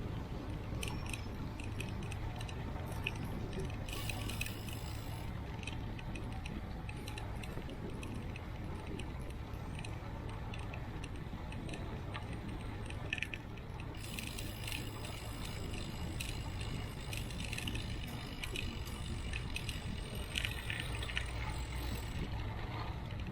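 Bicycle riding with the camera mounted on it: a steady rumble of wind and tyres on the road, with frequent light rattling and clicking from the bike, heaviest about four seconds in and again through the second half.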